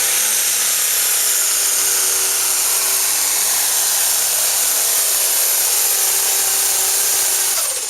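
Turbocharged diesel pulling tractor running flat out with a high-pitched, screaming whine over the engine. Its pitch falls near the end as it comes off the throttle.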